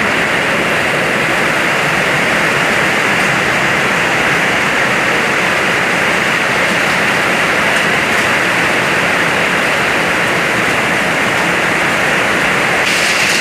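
Hailstorm: hail and heavy rain coming down hard in a loud, steady wash of noise.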